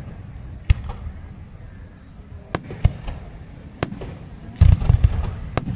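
Fireworks display with shells bursting overhead: about half a dozen sharp bangs at irregular intervals, the loudest a quick cluster near the end, over a low rumble of echo.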